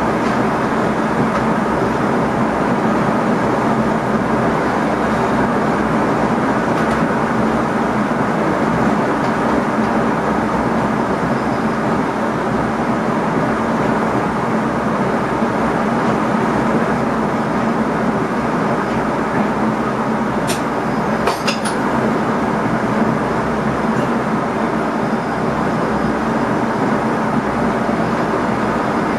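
NS ICM electric multiple unit running along the track, heard from inside the driver's cab: a steady running noise of wheels and train, with a few sharp clicks about twenty seconds in.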